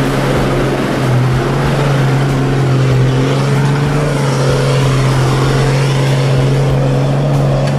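Toyota LandCruiser 80 series four-wheel drive's engine running at a steady, loud pitch as the vehicle drives past close by and away through deep mud.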